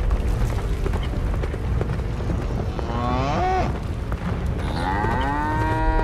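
Cartoon cattle mooing: a short moo about three seconds in and a long moo that rises and falls near the end. Under both runs a steady low rumble from the charging buffalo herd.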